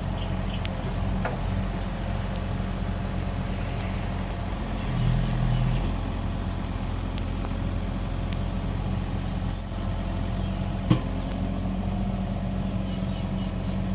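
Kubota excavator's diesel engine running steadily, with one sharp knock about eleven seconds in.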